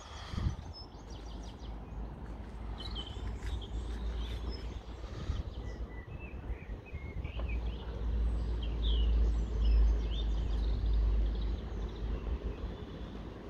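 Small birds chirping on and off, over a deep, uneven low rumble that swells about two thirds of the way through.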